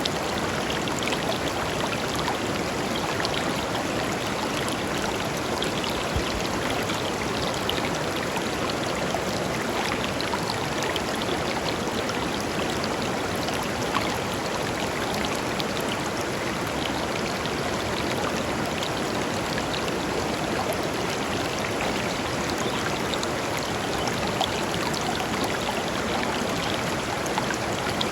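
Shallow river flowing steadily over stones: continuous rushing water with many small splashes and gurgles.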